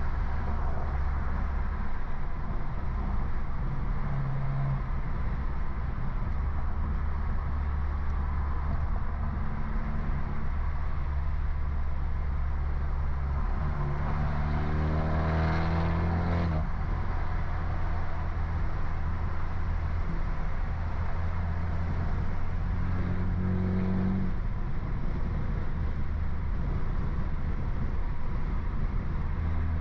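Stage 2 tuned BMW F30 328i's turbocharged four-cylinder engine and aftermarket exhaust drone steadily while driving. About halfway through, the engine pitch climbs under acceleration and then breaks off sharply at a gear change. A shorter climb comes later.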